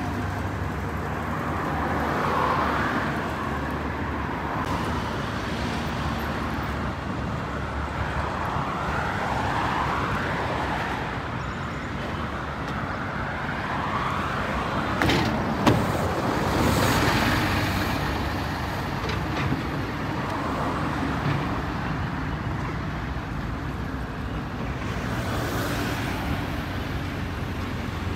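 Road traffic with buses: a steady engine drone and tyre noise, with vehicles passing one after another. A brief sharp click comes about fifteen seconds in.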